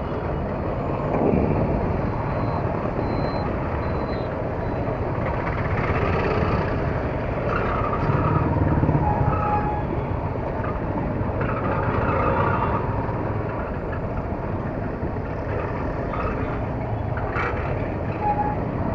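Riding noise from a moving Yamaha R15 motorcycle in traffic: steady wind and engine noise, with a few short faint tones near the middle.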